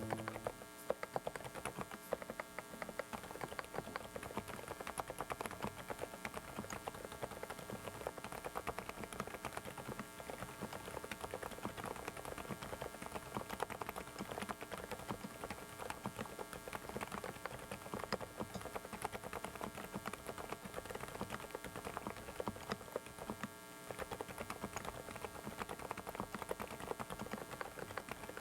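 Typing on a Dareu mechanical keyboard: a fast, irregular stream of key-switch clacks, demonstrating the sound of one of its switches. Underneath runs a steady electrical hum from a faulty microphone.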